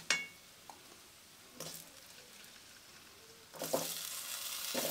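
Oil with garlic and spices frying quietly in a steel kadhai, a sharp tap of the wooden spatula on the pan at the start, then raw potato wedges dropped into the hot oil about three and a half seconds in, setting off sizzling that grows much louder near the end.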